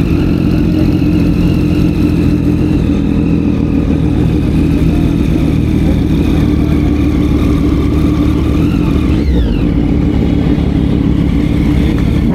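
Motorcycle engine running steadily and loud, with a short falling whine about nine seconds in.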